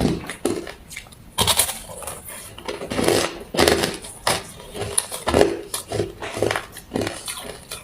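Close-up chewing of ice: repeated crunches and crackles of ice cubes being bitten and crushed between the teeth, in an irregular rhythm of about two bites a second.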